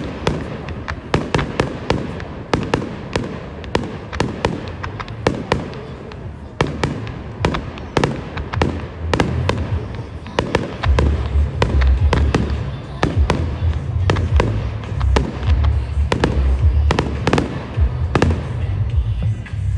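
Fireworks display: a fast, unbroken run of sharp bangs and crackling reports. About halfway through, music with a heavy bass comes in under the explosions.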